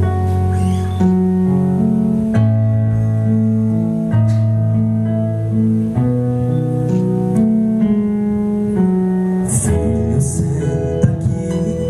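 Band keyboard playing a slow introduction of sustained, organ-like chords that change every second or two. About two seconds before the end the sound gets busier as other instruments come in, with bright, hissy hits on top.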